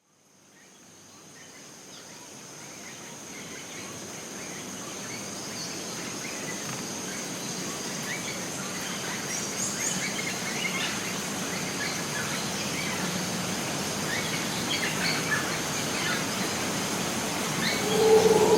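Costa Rican rainforest ambience fading in from silence: a steady high insect drone over a background hiss, with scattered bird chirps throughout. Near the end a louder, lower sound comes in.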